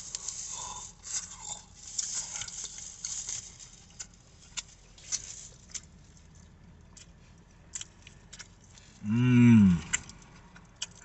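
A crunching bite into crispy fried chicken skin, followed by chewing with scattered crisp mouth clicks. About nine seconds in comes a loud, drawn-out hummed 'mmm' of enjoyment that rises and then falls in pitch.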